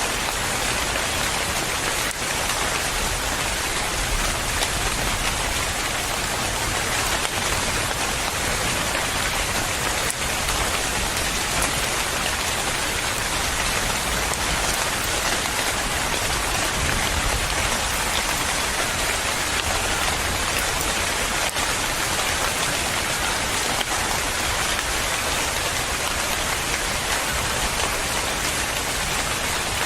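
Steady rain falling on surfaces, an even hiss of many drops with no breaks.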